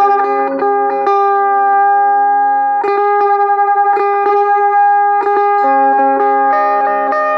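Harmony electric mandolin played through an amplifier: a tune of picked notes, with one long held note about a second in and quick repeated picking around three seconds in.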